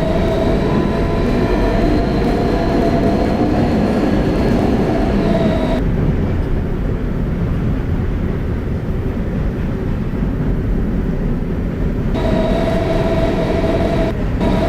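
Interior ride noise of a subway car with Siemens traction motors: a steady running rumble under a motor whine that rises slightly in pitch. The whine cuts out about six seconds in, leaving only the wheel and track rumble while the train coasts, and comes back about twelve seconds in.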